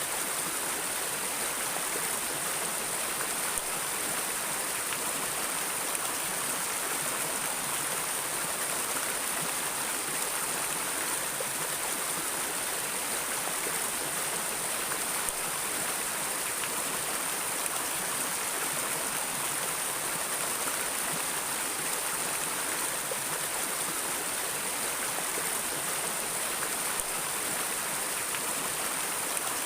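Stream water flowing steadily, an even rushing babble with no breaks.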